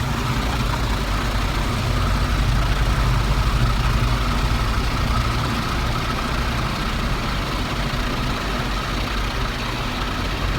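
Automatic car wash spraying spot-free rinse water over the car, heard from inside the cabin as a steady hiss over a low rumble.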